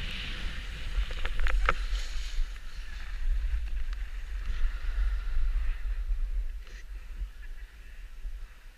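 Wind rumbling on the microphone under a hiss that fades away over several seconds, with a few sharp clicks about a second and a half in.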